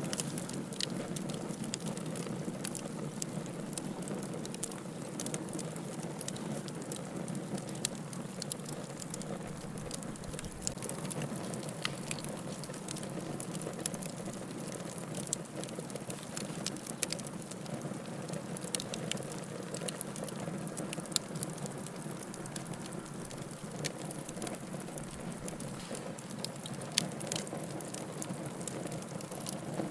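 Wood fire burning in a fireplace, a steady low rush of flames with many scattered sharp crackles and pops from the burning logs.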